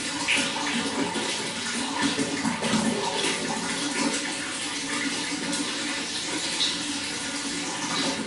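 Running water flowing steadily, with small irregular gurgles and splashes throughout.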